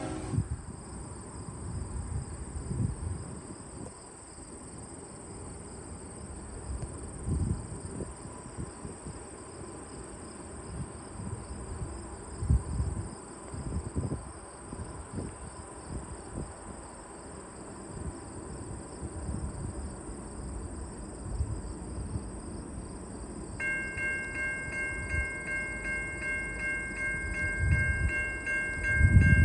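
Low, irregular wind rumble on the microphone over faint train and rail noise. About 23 s in, a railway level-crossing warning bell starts ringing with a steady, rapid pulse, the signal that a train is approaching the crossing.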